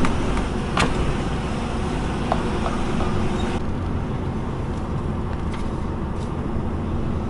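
Truck engine running steadily as heard from inside the cab while the lorry moves slowly, with a few sharp clicks in the first couple of seconds. A higher hiss drops away about halfway through.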